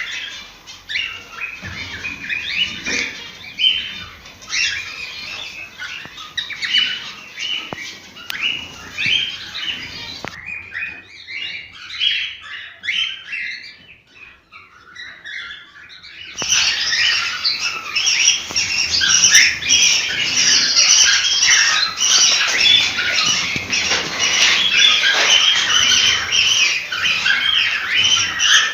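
A flock of cockatiels chirping and squawking, many short calls overlapping in a dense chatter. About ten seconds in it drops to a quieter, thinner chatter for some six seconds, then comes back louder and busier.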